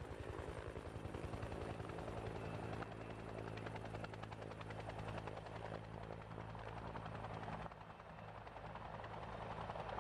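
Faint, steady aircraft-style whirring drone with a fast, even chopping pulse like a spinning propeller or rotor, dipping briefly about three-quarters of the way through.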